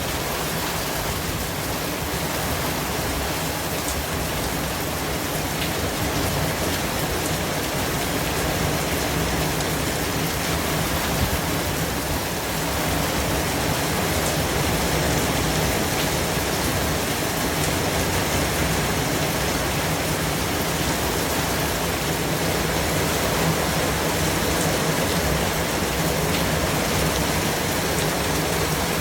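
Steady white noise: an even hiss spread across all pitches, with a few faint ticks, growing slightly louder about twelve seconds in.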